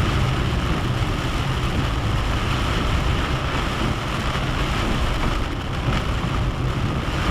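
Steady noise inside a moving car in heavy rain: a low engine hum with the rush of tyres on the wet road and rain on the body.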